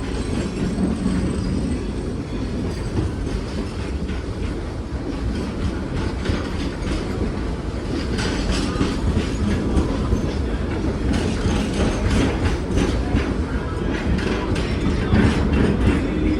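Dollywood Express train hauled by steam locomotive 192, rolling on the track. A steady low rumble runs throughout, with the wheels clicking over the rail joints, the clicks becoming frequent from about halfway through.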